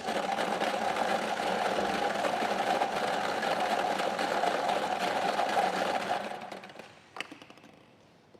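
Electric lottery ball machine running after its button is pressed, the numbered balls rattling steadily as they are mixed; it starts abruptly, then winds down and fades after about six seconds, with a single click as a ball drops out.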